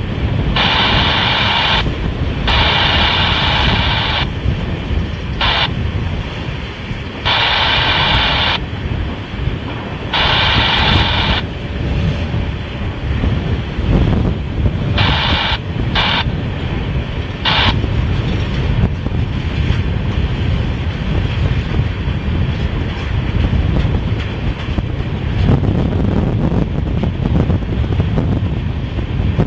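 Train of empty oil tank cars rolling by with a steady rumble of wheels on rail, under heavy wind buffeting the microphone. Over it, a scanner radio that will not squelch breaks in with about ten short bursts of hissing static in the first two-thirds, then falls quiet.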